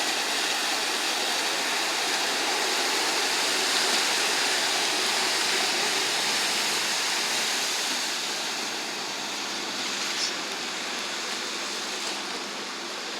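Steady rushing of churned river water from a passing boat. It swells to its loudest about four seconds in and eases off after about eight seconds.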